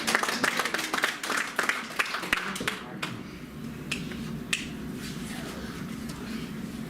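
Congregation clapping, dense at first and dying away about three seconds in, leaving a few scattered claps over a low steady room hum.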